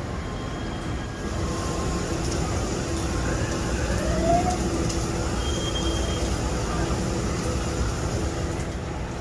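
Steady rumble of rain and vehicle traffic on a flooded street, with a short rising whine about three to four seconds in.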